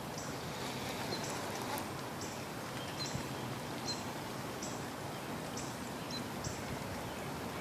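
Outdoor ambience: a steady background hiss with a short, high chirp from a small animal repeating roughly every 0.8 seconds.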